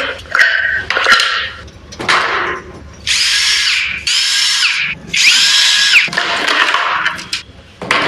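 Power tool run in short bursts on the trigger: a few quick blips, then three longer runs of about a second each, its motor pitch rising and falling with each pull.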